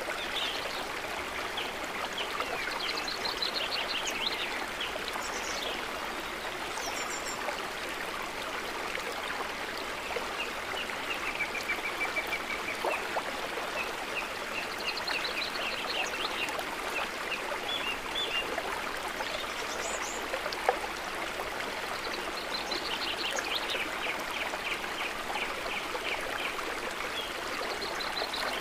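Steady gentle trickle of flowing water, with repeated bursts of rapid, high chirping trills from small animals over it, and one sharp click about two-thirds of the way through.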